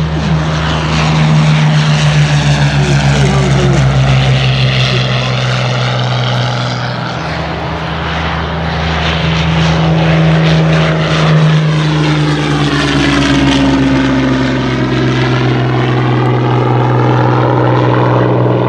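Two Hawker Hurricanes' Rolls-Royce Merlin V12 engines droning together in a low flypast. Their tone sweeps twice as the aircraft pass by.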